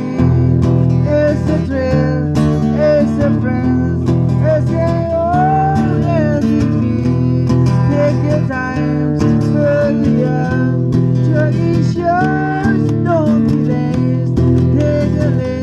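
Live blues band playing: guitar over a steady low bass line, with a lead melody line that slides between notes.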